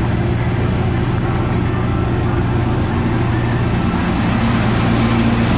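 Casey Jr. Circus Train ride running along its track, a steady rumble of the moving train heard from on board.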